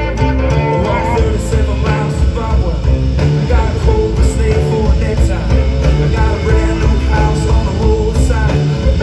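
A live band playing a rock groove: guitars over a steady bass line and percussion, with singing.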